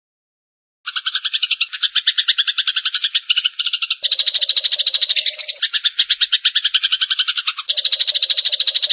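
Sparrows fighting: a rapid, harsh chatter of chirps at about ten a second, starting about a second in after a brief silence and running on without a break.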